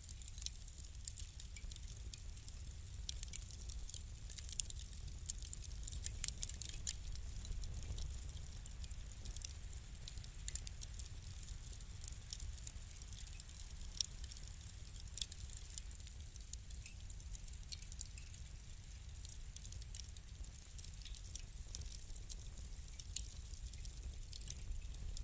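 Wood fire crackling: frequent small snaps and pops over a steady low rumble of the burning fire.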